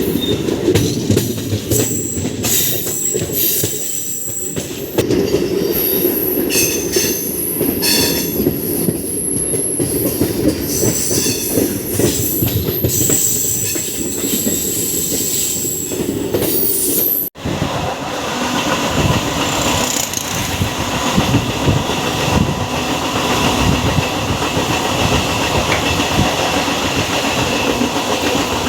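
MEMU electric train running, heard from on board: the wheels squeal and clatter as it crosses over the points from the fast line to the slow line. About two-thirds of the way in the sound breaks off suddenly, and steadier running rumble with rail clatter follows.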